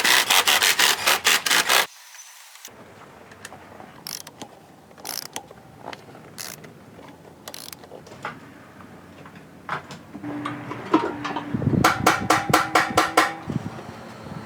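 Hand ratchet wrench clicking in two quick runs, one at the start and one near the end, with scattered tool clicks and knocks between.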